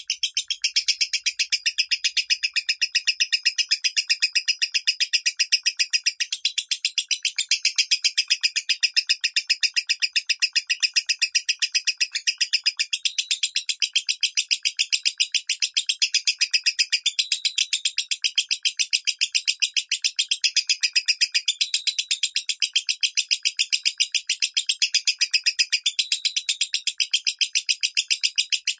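Lovebird singing its high 'minor' voice: an unbroken, rapid chattering trill of short high notes at an even pace, without pause.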